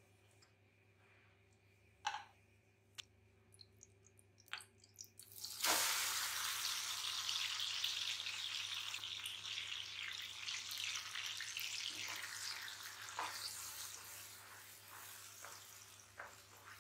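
A few sharp clicks from ghee heating in a nonstick pan, then about six seconds in mashed banana goes into the hot ghee with a sudden loud sizzle that slowly dies down. Near the end a wooden spatula ticks and scrapes against the pan as the mixture is stirred.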